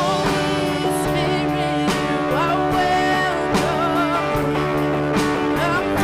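Worship band music: a voice singing with vibrato over guitar and sustained chords.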